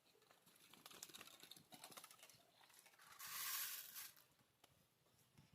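Near silence with faint scattered ticks and a brief soft rustle about three seconds in.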